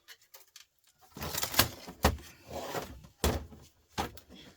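Knocks, scrapes and clatter of plastic and metal parts being handled and pulled apart while a TV/DVD unit is stripped for scrap. There are faint clicks at first, then about a second in comes a run of louder scraping and rattling with several sharp knocks.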